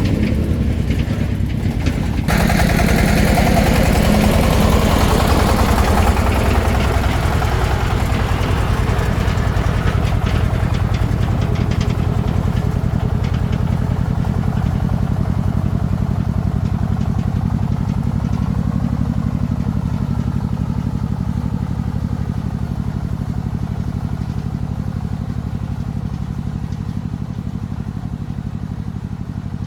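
Diesel engine of a restored công nông farm truck running steadily, picking up about two seconds in and then slowly growing quieter.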